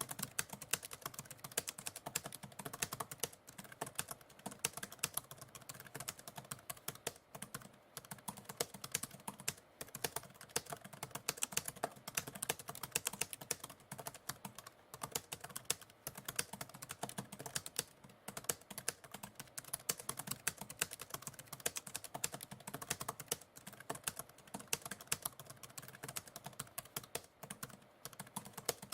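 Computer keyboard typing: a continuous run of fast, irregular keystrokes with brief pauses between bursts.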